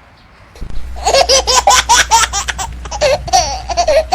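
High-pitched laughter in a rapid string of short bursts, starting abruptly about half a second in over a low hum.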